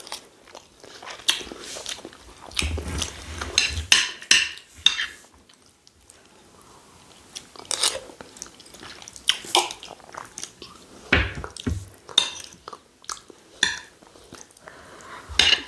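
Close-up chewing and mouth sounds of people eating rice and stew, with irregular wet smacks and clicks.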